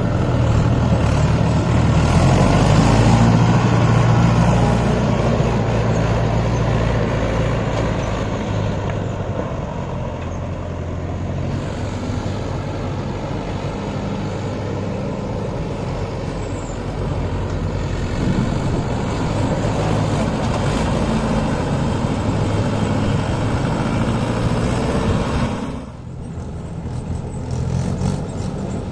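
Tractor diesel engine working hard, running steadily while pulling a fully loaded soil trolley, with its pitch and loudness rising and easing. Near the end the sound drops off suddenly, then comes back.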